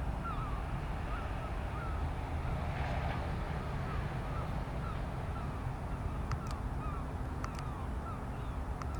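Short bird calls chirping over and over, roughly one or two a second, over a steady low rumble, with a few sharp clicks about two-thirds of the way in.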